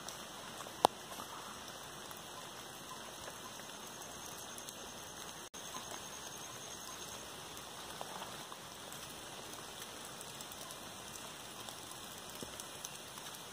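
Monsoon rain falling steadily, an even hiss with no let-up. One sharp click about a second in, and the sound cuts out for an instant near the middle.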